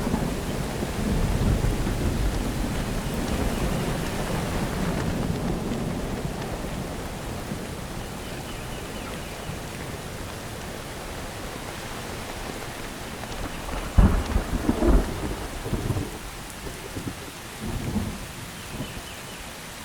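Steady rain with a low rolling thunder rumble that fades away over the first few seconds. About fourteen seconds in come two sharp cracks, the loudest sounds, followed by a few smaller crackles.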